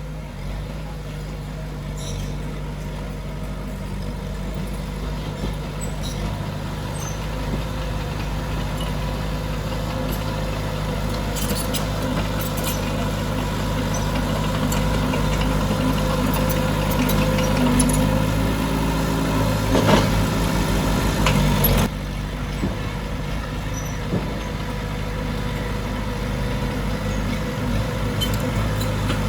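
Heavy diesel construction machinery running steadily, growing gradually louder and then dropping off suddenly about twenty-two seconds in, with a few sharp metallic clicks.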